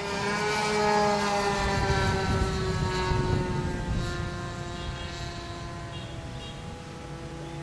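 Two-stroke glow engine (O.S. 55AX) of a radio-controlled Edge 540 model aerobatic plane running in flight, a steady high-pitched whine that grows louder about a second in and then drops slightly in pitch and fades a little as the plane passes.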